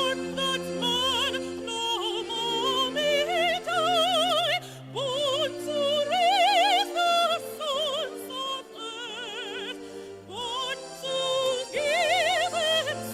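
A woman singing in an operatic style, with wide vibrato on long held high notes, over sustained instrumental accompaniment.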